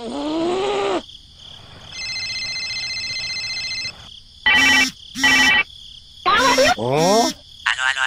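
Edited-in cartoon sound effects. A short squeaky gliding sound comes first, then a steady buzzing electronic tone for about two seconds, then two short pitched blips and two quick rising, whooping glides.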